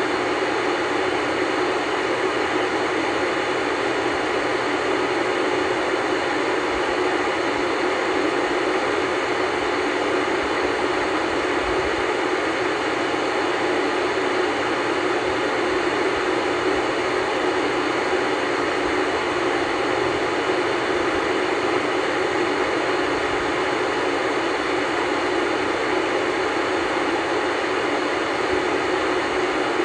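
Static hiss from an old black-and-white tube television tuned to no station: a steady, even rush of noise that does not change.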